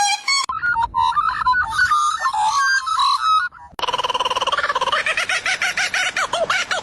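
Animal calls, pitched and chirping, in short broken phrases. About four seconds in they change abruptly to a different call that pulses rapidly.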